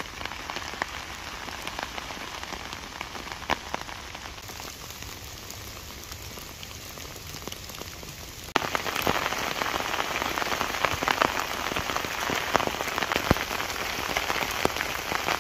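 Heavy rain falling in woodland: a steady hiss with scattered heavier drops ticking. About halfway through it suddenly becomes louder and denser, a close, thick patter of drops.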